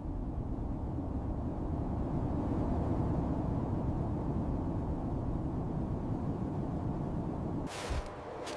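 Steady low rumble of wind noise, swelling slightly toward the middle, with a brief hissing rush near the end.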